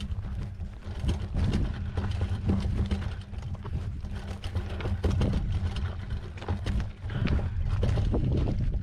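Mountain bike riding over a rough dirt trail: tyres crunching on dirt and gravel, with irregular clattering knocks as the bike rattles over bumps and a steady low rumble underneath.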